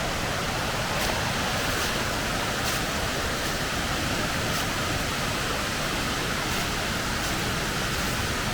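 Steady rush of a waterfall and creek, an even wash of water noise that holds at one level throughout.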